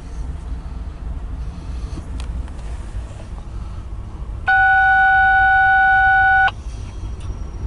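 A loud, steady electronic tone sounds for about two seconds, starting and stopping abruptly about halfway through, over a low steady rumble.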